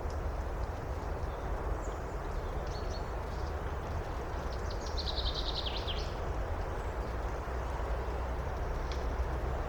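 Steady wind through the forest with a low rumble, and a bird singing a quick trill of repeated high notes for about a second, some five seconds in. A few faint short chirps come before and after it.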